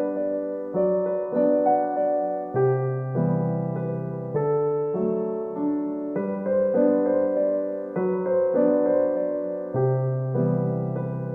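Background music: soft piano playing gentle chords, each note struck and fading.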